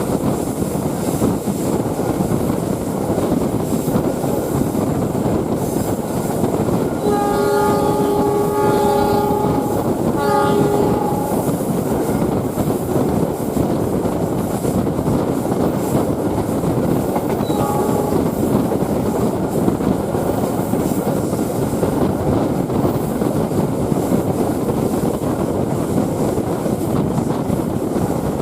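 Passenger train running along the track with steady noise. Its horn sounds a long blast about seven seconds in, a short second blast right after, and a brief toot later on.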